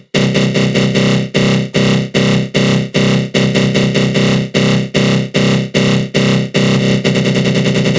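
Synthesized attack-growl sound effect: a harsh, buzzing GMS synth tone run through a flanger. It pulses in chopped bursts about two to three times a second, then breaks into a fast stutter near the end.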